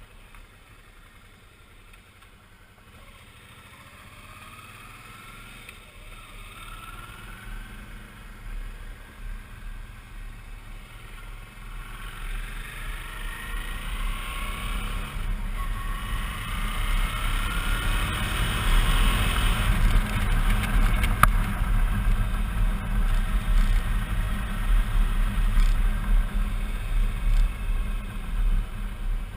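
Suzuki V-Strom 650's V-twin engine pulling away and accelerating through the gears, its pitch rising in several sweeps and the engine and wind rumble getting steadily louder as speed builds.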